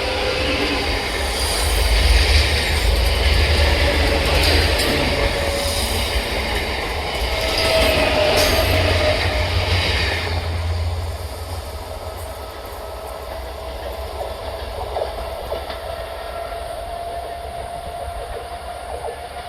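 Electric multiple unit (EMU) local train passing on a sharp curve: wheels rumbling and clattering over the rail joints, with a thin squeal from the wheels on the curve. The passing is loud for the first half, then drops to a quieter rumble about eleven seconds in.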